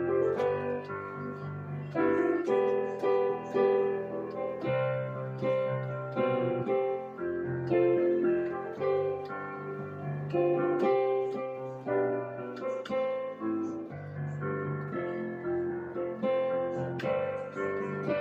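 Piano playing an instrumental tune, chords and melody notes struck in a steady rhythm.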